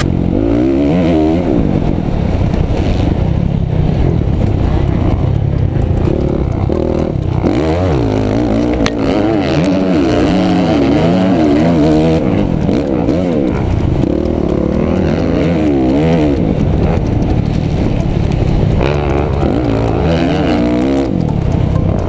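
Motocross bike engine being ridden hard, its pitch rising and falling again and again as the throttle is opened and shut.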